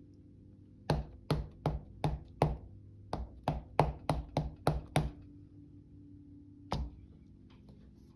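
Alphabet stamp being tapped against an ink pad and pressed onto paper on a tabletop: about a dozen sharp taps in quick succession over some four seconds, then one more tap a couple of seconds later.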